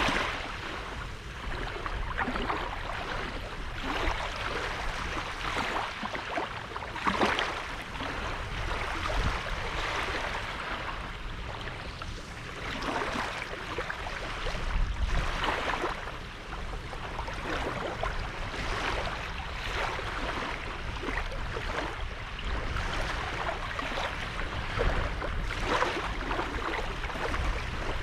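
Small sea waves breaking and washing onto a sandy beach, a new wash swelling in every couple of seconds, with a low rumble of wind underneath.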